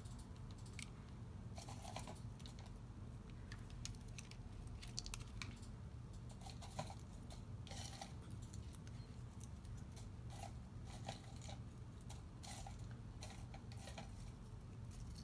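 Faint papercraft handling: scattered light clicks, taps and paper rustles as small paper flowers are picked up and placed on a card box, over a low steady hum.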